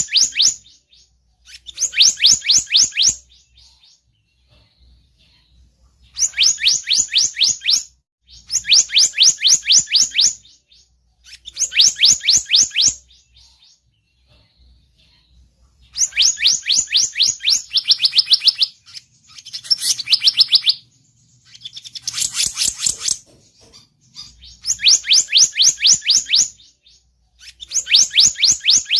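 Bird-lure recording of selendang biru calls: bursts of rapid, evenly repeated sharp notes, each burst lasting one to two seconds with short pauses between, and a varied run of calls around the middle.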